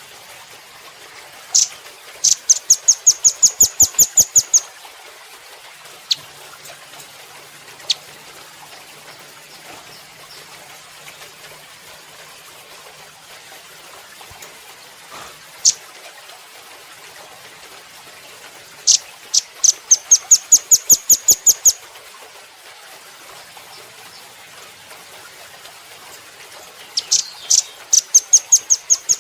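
Velvet-fronted nuthatch calling: three quick series of sharp, high chips, about five a second for two to three seconds each, with a few single sharp notes between them.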